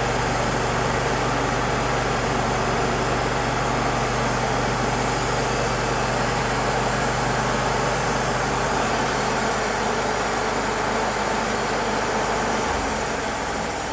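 Wood-Mizer LT35 sawmill's engine running steadily, its low note shifting about thirteen seconds in.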